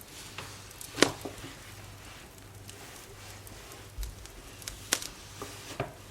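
Kitchen handling sounds: a few sharp clinks and knocks of utensils and containers, the loudest about a second in and two more near the end, with a low thud in between, over a faint steady low hum.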